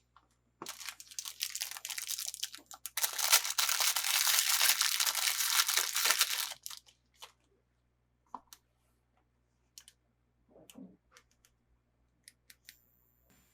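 Toy packaging being torn open by hand: about six seconds of tearing and crinkling, loudest in its second half, followed by scattered light clicks and taps.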